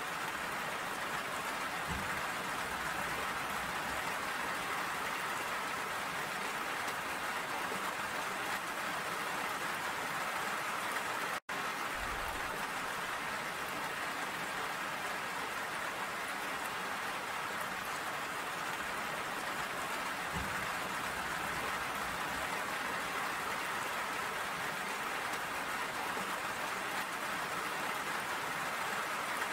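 Steady rain falling, an even hiss without let-up, broken by a momentary drop-out to silence about eleven seconds in.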